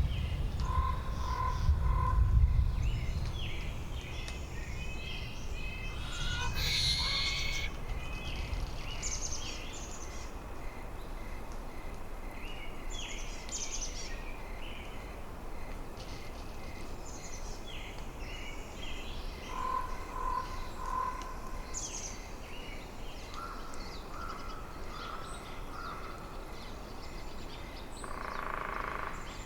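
Winter forest ambience: wind gusting in the trees, strongest in the first several seconds and then easing, under many small birds chirping. A lower three-note call sounds twice, near the start and again about two-thirds of the way through.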